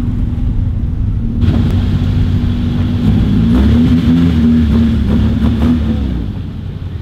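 A car engine running up close, with a hiss that comes in about a second and a half in. From about three seconds in the engine is blipped, its pitch rising and falling a few times, before it drops back near the end.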